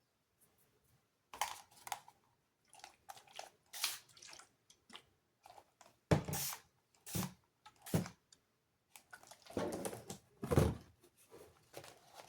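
An irregular run of dabs, taps and scratchy strokes from a paintbrush working paint on the painting surface, a few of them heavier and duller.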